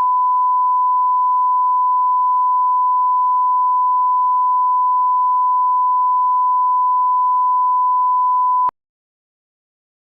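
Steady 1 kHz reference test tone of the kind played with colour bars, a single unwavering pitch that cuts off abruptly near the end.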